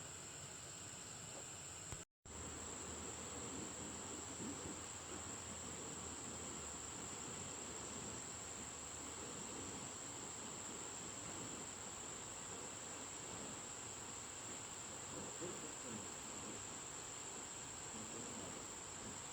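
Steady insect chorus, a high even buzz, with a brief cut in the sound about two seconds in.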